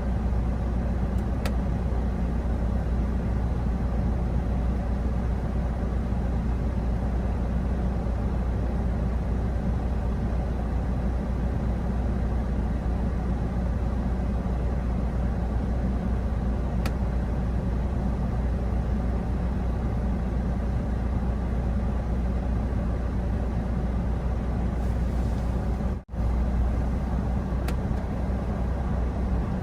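Steady road and engine rumble of a vehicle being driven, heard from inside; the sound drops out for an instant near the end.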